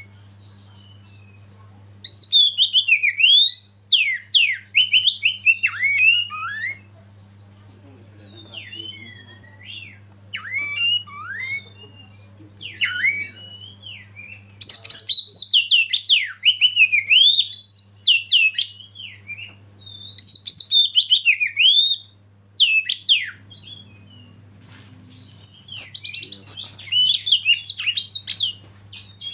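A songbird singing in repeated bursts of rapid, sharply swooping whistled notes, each burst lasting a few seconds with short pauses between, over a steady low hum.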